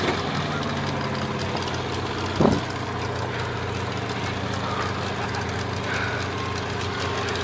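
Demolition derby cars' engines idling together, a steady low engine drone of several overlapping tones. About two and a half seconds in, a brief louder shout cuts across it.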